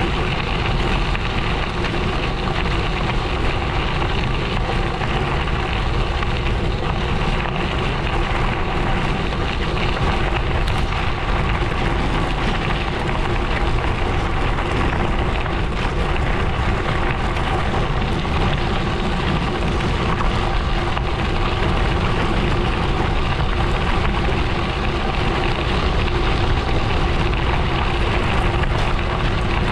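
Gravel bike tyres rolling over a gravel road, a steady crunching road noise that holds level throughout.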